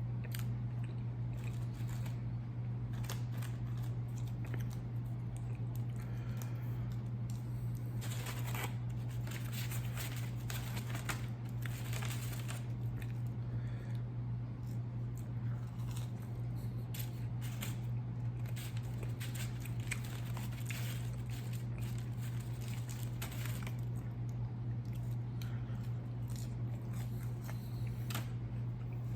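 Close-miked eating: irregular crunching, biting, chewing and wet mouth clicks from someone eating a fast-food meal, with now and then the crinkle of paper packaging. A steady low electrical hum sits under it all.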